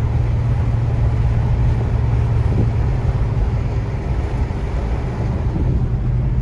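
Steady car engine hum and road noise heard from inside the cabin.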